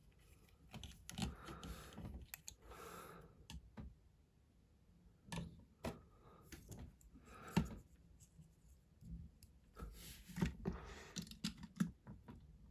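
Lego plastic parts being handled: scattered small clicks and taps with brief rustling, in three clusters about a second in, midway, and near the end.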